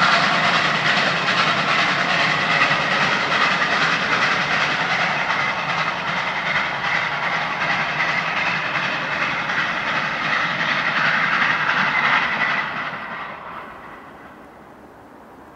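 Steam-hauled passenger train running away down the track: a steady rolling noise of wheels on rails, with a hiss mixed in. It dies away over a second or two about 13 seconds in, leaving faint background noise.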